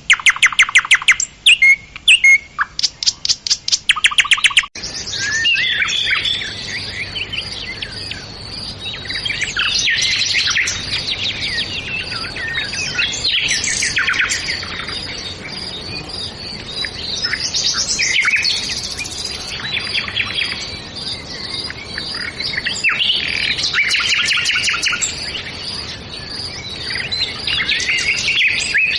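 Birds chirping: for the first few seconds a fast run of loud, sharply repeated chirps, then after an abrupt change a dense chorus of many birds chirping at once, rising and falling in waves.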